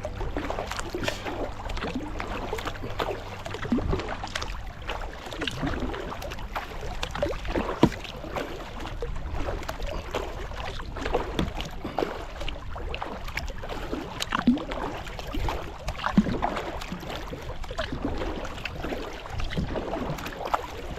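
Kayak paddling: irregular paddle strokes splashing into the water and water washing along the hull, with a few sharper knocks, the loudest about eight seconds in.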